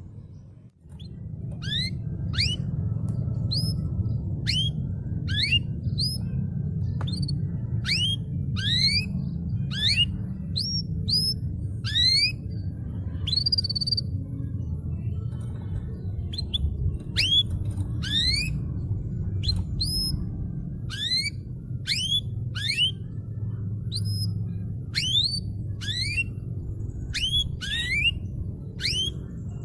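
Canary singing: a long run of sharp, rising chirps, one or two a second, over a steady low background rumble, with a brief gap just under a second in.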